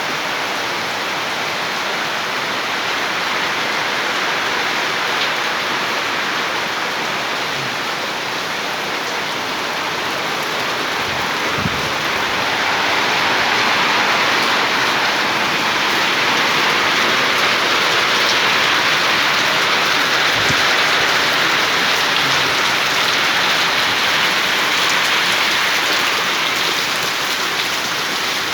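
Heavy rain pouring down steadily, swelling louder about halfway through.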